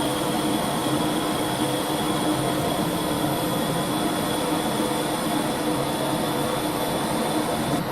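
Holbrook C8 toolroom lathe running steadily: an even mechanical hum with a constant high whine.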